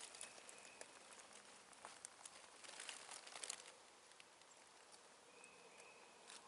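Quiet outdoor ambience: faint scattered crackles with a denser patch about three seconds in, and a thin, steady high note heard twice.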